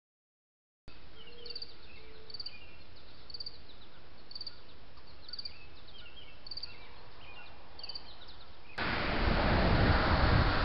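Outdoor ambience with a small bird repeating a short high chirp about once a second, with other softer chirps around it. About nine seconds in, a sudden loud rushing noise takes over.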